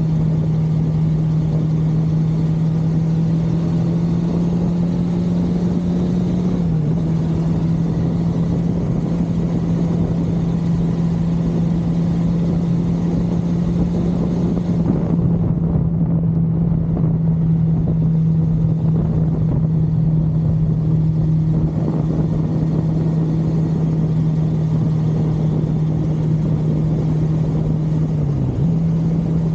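1982 Suzuki GS550L's air-cooled inline-four engine running at a steady cruising speed. Its pitch dips briefly twice, about seven seconds in and again near the end, then comes back to the same note.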